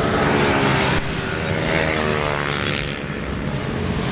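A motor vehicle's engine passing close by on the road, its pitch falling as it goes past, over steady traffic and road noise.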